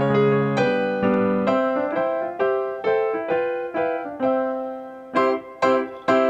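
Background music played on a piano or electric piano: a gentle melody of struck notes, each fading after it is played.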